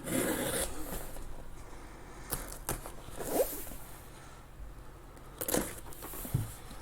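Sealed cardboard case of card boxes being opened: a short rasp of packing tape tearing at the start, then a few scattered knocks and rustles of cardboard flaps.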